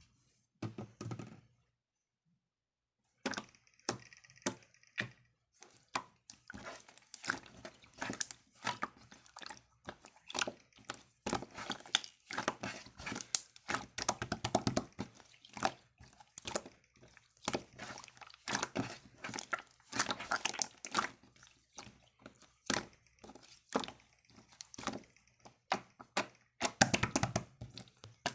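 Slime being squeezed and stretched by hand, making dense, irregular wet squishes and small clicking pops of trapped air. A short pause comes about two seconds in.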